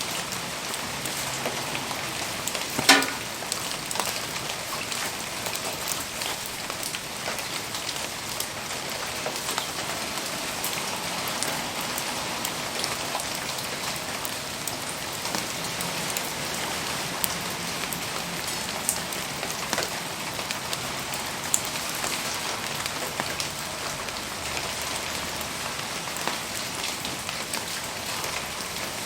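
Steady rain falling, an even hiss full of small ticks of drops, with one sharp snap about three seconds in.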